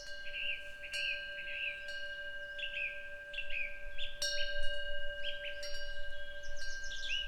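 A Korean temple wind bell (pungyeong) hanging from the eaves rings with a long, steady tone and is struck again about four seconds in. Small birds sing repeated short chirping phrases over it.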